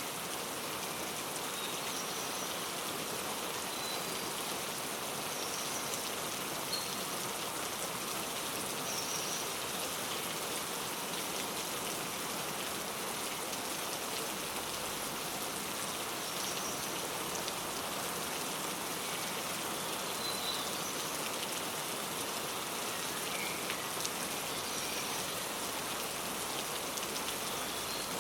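Steady rain falling on surfaces, with short high bird chirps coming every few seconds.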